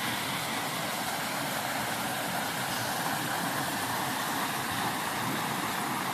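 Steady rushing of a flowing stream, an even hiss with no breaks.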